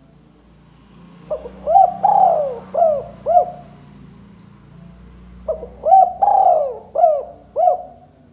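Spotted dove (tekukur) cooing: two phrases of about five notes each, a couple of seconds apart.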